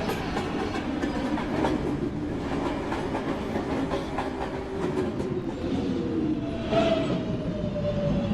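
Subway car running on the rails, heard from inside: a steady rumble with faint clacks of the wheels over rail joints. A faint tone falling slightly in pitch comes in near the end.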